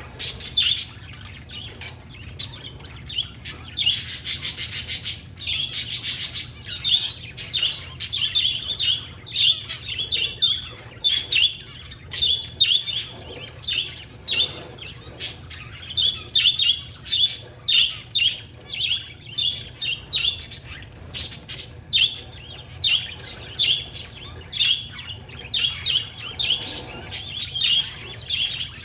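Parakeets and zebra finches chirping together: a steady stream of short, high chirps in quick succession, with a longer, buzzier stretch of chatter about four seconds in.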